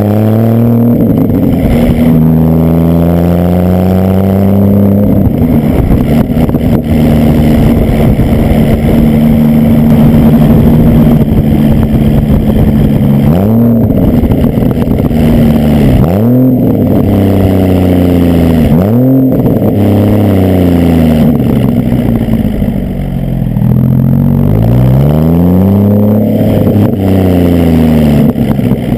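2003 Porsche Boxster S 3.2-litre flat-six heard at the rear through Fabspeed secondary-cat bypass pipes and a Stebro race muffler, revving up through the gears at the start, then holding a steady pitch. Around the middle come three quick rev blips, the throttle blips of heel-toe downshifts, and near the end the revs climb and fall once more.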